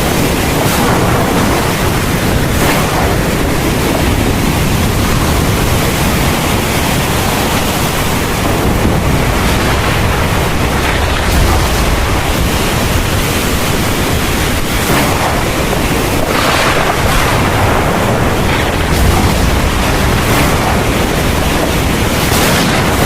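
Heavy thunderstorm rain pouring steadily, with a deep low rumble underneath. The hiss swells briefly a few times, around 3 s, 16 s and near the end.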